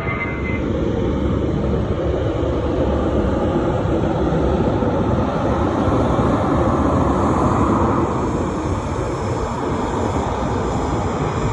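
Jet airliner engines running loud and steady, a dense rumble and hiss with no gaps, as an aircraft passes near the airport.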